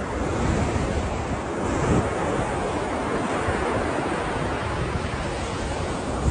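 Ocean surf: waves breaking and washing in a steady rush, with some wind noise on the microphone.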